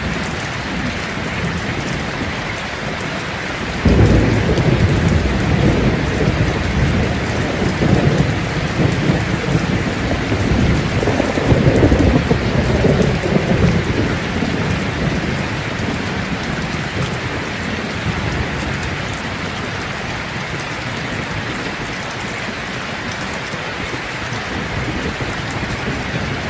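Steady heavy rain, with a roll of thunder that breaks in suddenly about four seconds in, rumbles, swells again a few seconds later and dies away into the rain.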